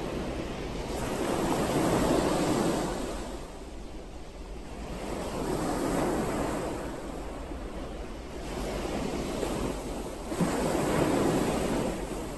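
Ocean waves washing onto the shore: three swells of surf that rise and fall about every four to five seconds. A short click sounds about ten seconds in.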